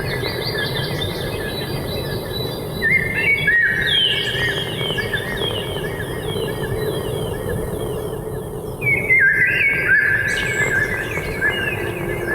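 Birds chirping in rapid repeated trills, swelling in two bouts about three and nine seconds in, over a low steady tone that drops slightly in pitch near the end.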